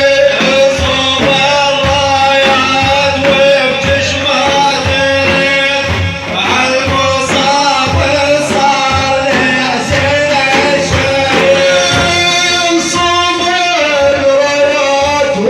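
Men singing a Prophetic praise song (manqabah) over a held drone, with regular drum beats underneath.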